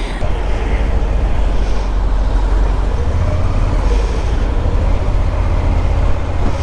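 Motorcycle engine running steadily under way, with a low rumble and road and wind noise.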